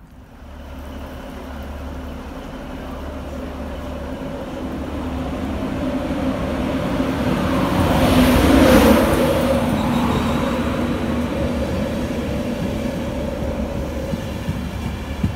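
An InterCity 225 express led by Class 91 electric locomotive 91117 approaching and running past along the platform. It grows steadily louder, loudest as the locomotive passes about eight seconds in, then the Mark 4 coaches keep rolling by at a slowly falling level.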